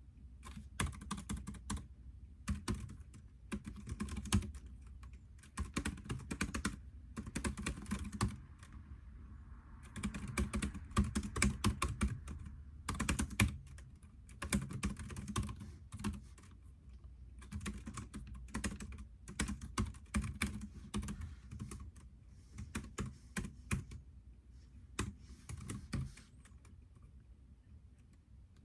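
Typing on a computer keyboard: quick runs of key clicks in bursts of a few seconds, broken by short pauses, over a steady low hum.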